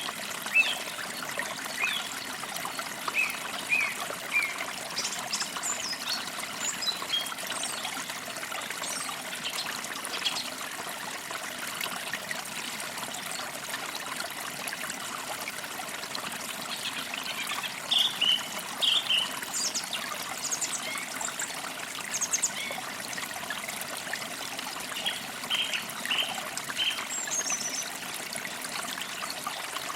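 Forest creek trickling and babbling steadily, with birds chirping in short calls over it, now and then in quick runs of notes.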